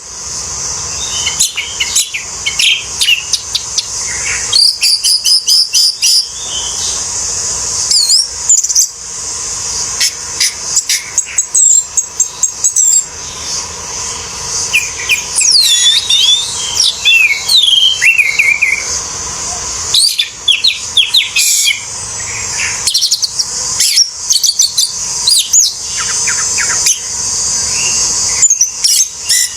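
Orange-headed thrush singing a long, varied run of quick whistles, trills and chirps with hardly a pause, over a steady high hiss.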